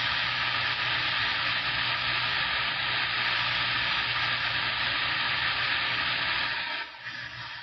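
CB radio static: a loud, steady hiss of noise from the receiver's speaker with no voice on it, starting abruptly and falling away sharply about seven seconds in.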